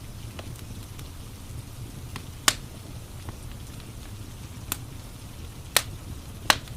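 Wood fire crackling in a fireplace over a steady hiss of rain, with four sharp pops from the burning logs in the second half.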